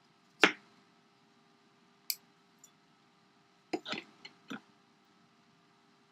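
Irregular sharp knocks and taps of kitchen utensils during salad preparation: one loud knock about half a second in, a light click about two seconds in, then a quick cluster of four or five knocks around four seconds in.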